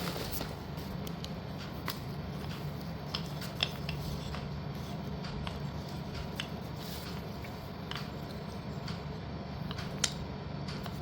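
Scattered light clicks and taps of hard slate pieces and their packaging being handled, a sharper click about three and a half seconds in and another near the end, over a steady low hum.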